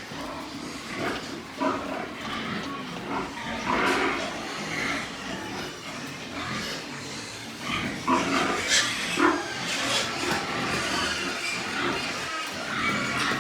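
Pigs grunting and calling in irregular short bursts, with sharper, louder calls in the second half.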